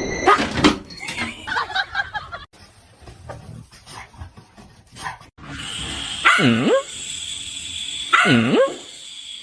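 A dog barking twice, about two seconds apart, each bark dipping in pitch and rising again. Before that there is a short jumble of clicks and knocks near the start.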